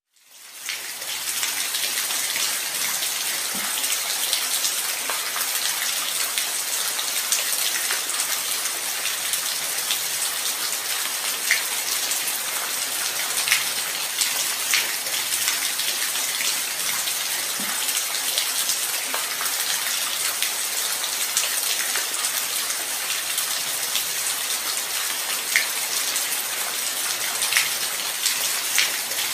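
Steady light rain: an even hiss with scattered sharper drop ticks, fading in over the first second.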